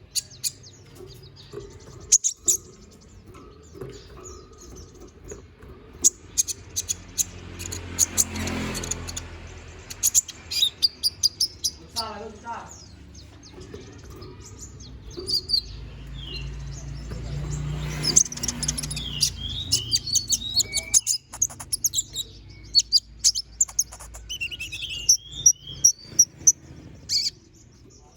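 Konin sunbird singing a busy, full song of sharp high chirps and rapid trills, delivered in quick runs with short gaps. A low hum sits underneath in places.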